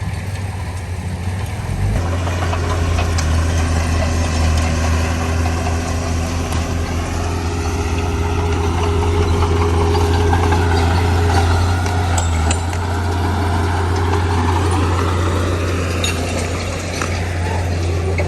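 Heavy construction machine's diesel engine running steadily with a deep hum. It gets louder about two seconds in, and its note swells and eases in the middle.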